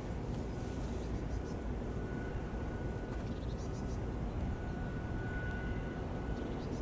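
Steady low rumble of a cruise ship's engines as it passes along the canal, with a faint steady whine above it.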